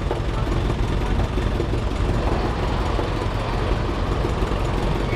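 Vintage tractor engine idling steadily while stopped.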